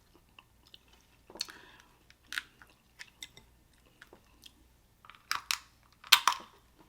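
Close-up eating sounds: chewing and biting on seafood-boil crab and lobster, with irregular short crunches and wet clicks. The loudest snaps come in a cluster near the end.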